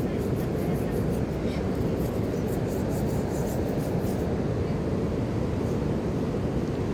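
Steady rushing roar of a waterfall, an even noise that holds at one level throughout.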